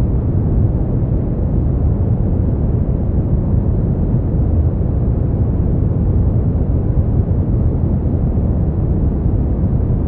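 Steady brown noise: a deep, even rumble of noise weighted toward the low end, with no changes or events.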